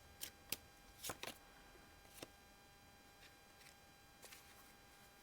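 Quiet room with a handful of short, soft clicks in the first two seconds, then a few fainter ticks, thinning out toward the end.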